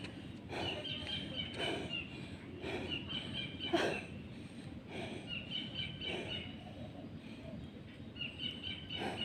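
A bird in the trees repeating a short, high chirping phrase four times over steady outdoor background noise.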